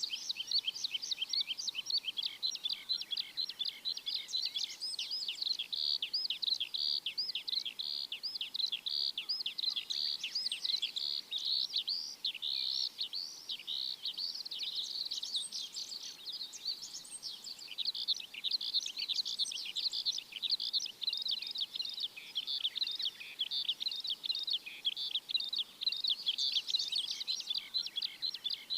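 Birds chirping: a dense, continuous chorus of quick high chirps and twitters from many small birds.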